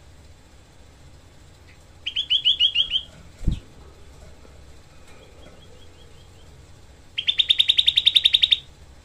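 Cucak kelabu bulbul giving its 'tembakan' song: two bursts of rapid, tightly packed chattering notes, the second, near the end, longer and louder at about ten notes a second. A single dull knock sounds about midway between them.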